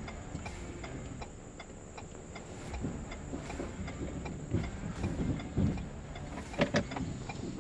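Ford F-150 pickup on the road towing a boat trailer, heard from the cab: steady road rumble with uneven bumps, and a regular ticking about two to three times a second. A couple of sharper knocks near the end.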